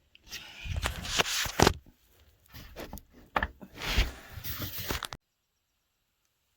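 A door being worked open by hand: two bouts of rattling, scraping and sharp knocks, after which the sound cuts off suddenly about five seconds in.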